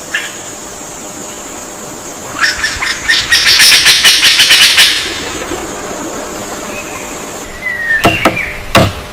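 Outdoor ambience with a steady hiss and a thin high whine. Midway comes a burst of rapid rattling taps. Near the end a short falling chirp is followed by a few sharp knocks.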